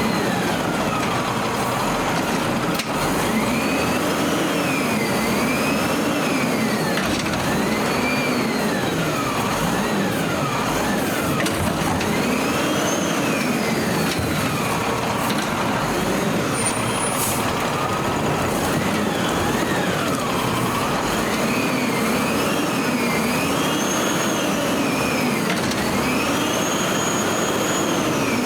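Peterbilt 320 garbage truck's diesel engine revving up and down repeatedly, each rise and fall taking a second or two.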